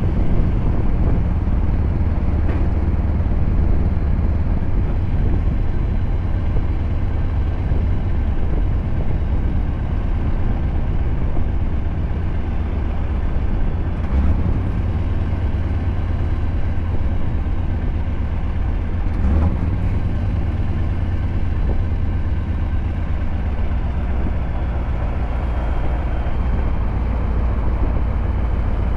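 Scania R580's 16.4-litre V8 with a straight-piped 8-inch exhaust running steadily as the truck drives, a continuous low drone with a couple of brief knocks partway through.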